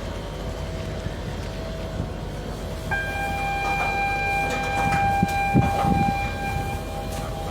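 Ferry's engine rumbling steadily, with a long steady horn tone starting about three seconds in and holding for about four seconds.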